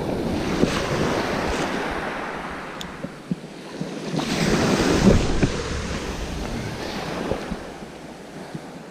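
Sea waves breaking and washing up the beach, swelling and fading, loudest about halfway through, with wind buffeting the microphone.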